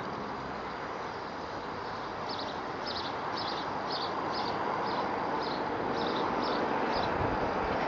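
Steady rushing outdoor noise, with a small bird repeating a short high chirp about twice a second from about two seconds in until near the end.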